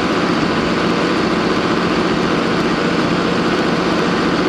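Tractor engine idling steadily, an even drone with no change in speed.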